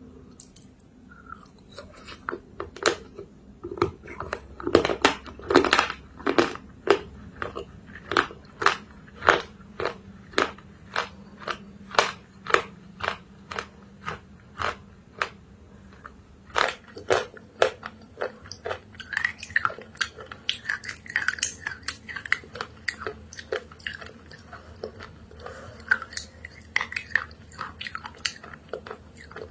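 A person chewing crunchy clay pieces close to the microphone: a steady run of sharp crunches, about two a second, loudest around five seconds in.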